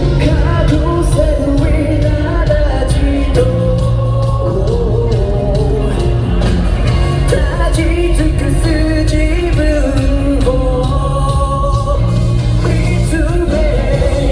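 Live rock band performance with a lead vocalist singing a melody over a full, loud band, recorded from the audience in a large hall.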